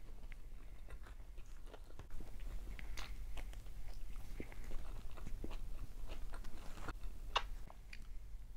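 A person chewing and biting food by mouth, with irregular clicks and smacks that come thickest from about two seconds in; the sharpest one comes near the end.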